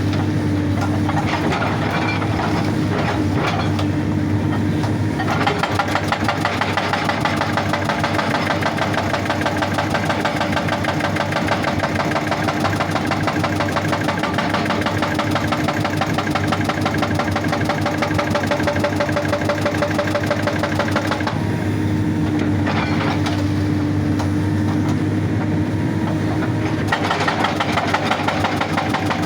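Excavator's diesel engine running steadily while its hydraulic rock breaker hammers rapidly on stone. The hammering starts about five seconds in, stops about two-thirds of the way through, and starts again near the end.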